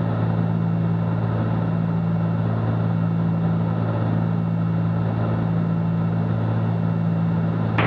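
Steady drone of a Cessna 310Q's twin piston engines and propellers in flight, heard from inside the cabin, with a strong low hum that holds steady throughout.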